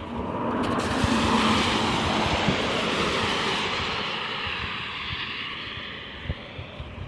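A car passing on a wet road, its tyres hissing through water. The sound swells over the first second, peaks, and then fades away over several seconds.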